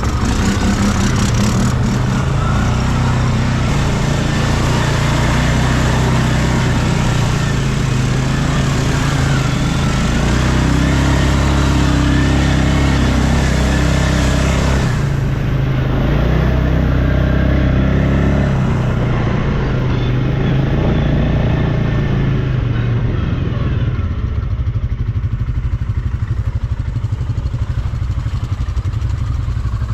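ATV engine running under changing throttle as it is ridden, its pitch rising and falling; it settles lower and quieter in the last several seconds.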